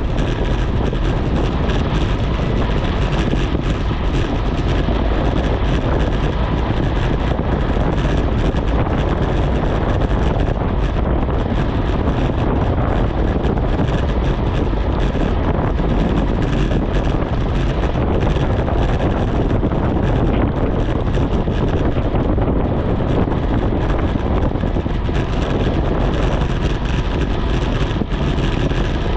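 Steady loud rush of wind over the microphone on a bicycle riding downhill at speed.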